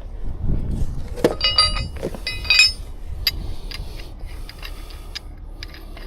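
Steel rigging hardware clinking and ringing as it is handled: a few loud metal clinks with a ringing tone between about one and three seconds in, then lighter, scattered ticks.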